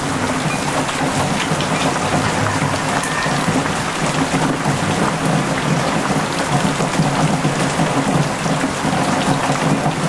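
Heavy typhoon rain pouring down steadily, splashing into standing floodwater on the ground with a dense patter of drop impacts.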